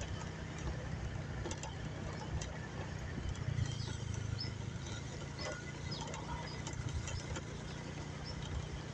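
Small motorbike engine running steadily at low speed while riding, a constant low hum, with a few faint high chirps and light clicks.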